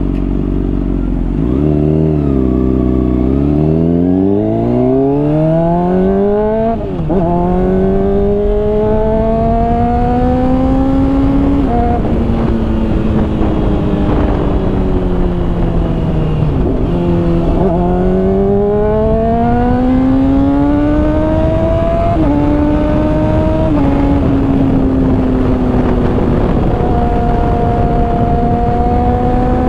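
Honda CBR600RR inline-four with a Hotbodies Stinger slip-on exhaust accelerating hard through the gears while riding. The engine note climbs and drops sharply at each upshift, eases off for a few seconds in the middle, then pulls again and settles to a steady cruise near the end. Wind rushes over the helmet microphone throughout.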